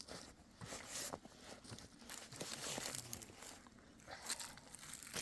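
Irregular rustling and crinkling with scattered small knocks and clicks, as of material being handled.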